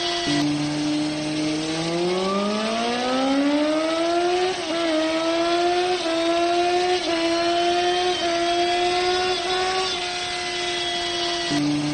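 Bajaj Pulsar 150's single-cylinder four-stroke engine running at high speed, near 100 km/h. Its note drops suddenly just after the start, climbs steadily for about four seconds, then holds steady, and drops again near the end.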